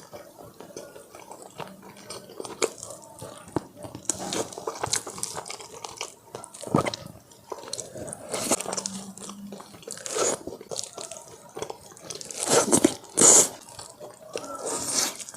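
Close-miked eating sounds from a meal of spicy fire noodles and Korean fried chicken: crunching bites and wet chewing in quick, irregular clicks and crackles, loudest near the end.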